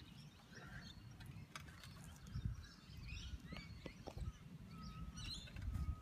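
Scattered short bird chirps over a low rumble, with faint clicks and rubbing as a rubber weatherproof boot is worked along a coaxial cable over its F connector.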